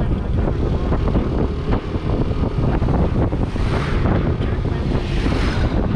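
Wind buffeting the microphone while riding a motor scooter at road speed, a steady loud rumble, with two brief swells of rushing hiss about three and a half and five seconds in.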